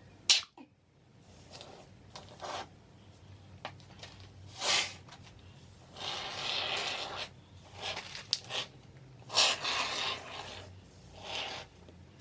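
Aerosol can of expanding polyurethane sealing foam spraying in a run of hissing bursts: several short ones and one lasting about a second in the middle, with a sharp click near the start.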